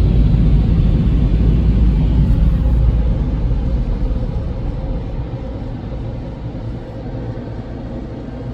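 Car driving slowly, a steady low rumble that grows gradually quieter over the second half.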